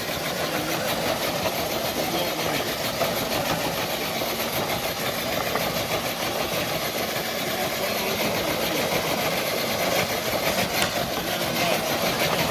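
Electric RC crawler truck's motor and gears whirring steadily under load as it drags a dead-weight sled loaded with nine bricks.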